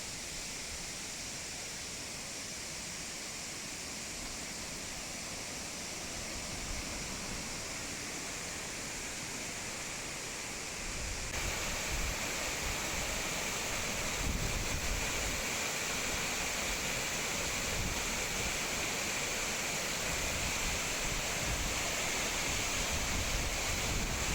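Waterfall: a steady rush of falling water, which gets louder about eleven seconds in.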